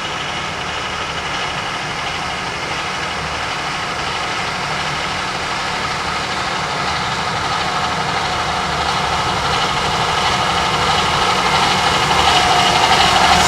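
A rail vehicle's engine running steadily, growing gradually louder toward the end.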